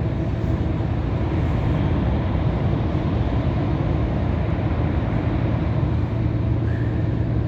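Steady in-cab drone of a Scania R500 truck's 13-litre inline-six diesel engine and road noise while driving at speed.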